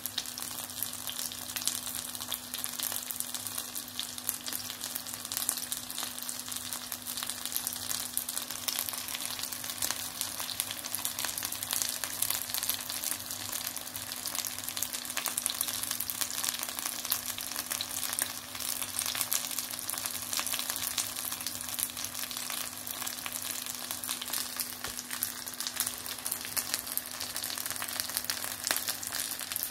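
Breaded beef schnitzels shallow-frying in oil in a cast-iron skillet: a steady, dense sizzle full of fine crackles, with a faint steady hum underneath.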